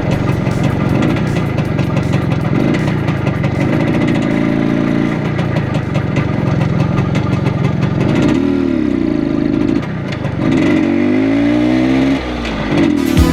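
Single-cylinder two-stroke engine of a 1980 IZh Planeta Sport 350 motorcycle running under steady load for about eight seconds. Then the revs fall and climb back twice.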